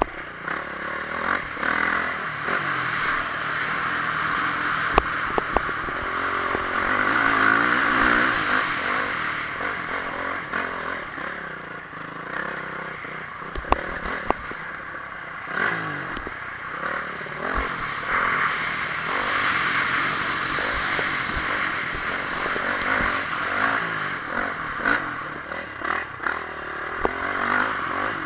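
Honda CRF450R's single-cylinder four-stroke engine revving up and down over and over while ridden hard in a motocross race, with sharp knocks and clatter from the bike over rough ground.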